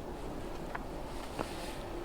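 Boeing 747-400 jet engines heard from afar as a steady hum, with wind on the microphone and two short clicks.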